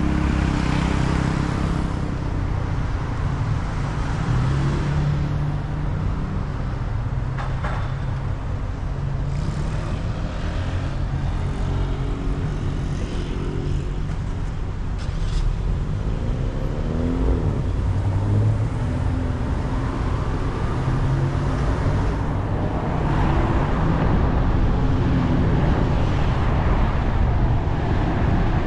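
Car engines running with a steady low rumble; about two-thirds of the way through, one engine's pitch slides up and down as it revs or drives past, and the engine noise grows louder near the end.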